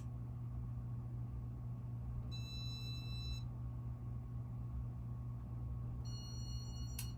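Casablanca Panama ceiling fan's electronic control giving two long beeps, each about a second long, over the fan motor's steady low hum, with a click near the end. The drawn-out beeping is a sign of how badly worn the fan's electronics are, in the owner's view.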